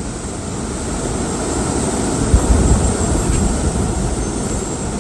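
Strong wind blowing and buffeting the microphone, a deep rumbling rush that gusts harder about two and a half seconds in.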